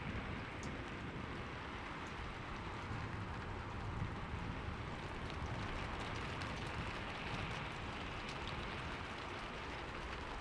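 Steady rain falling, with scattered close drops ticking and a low rumble underneath.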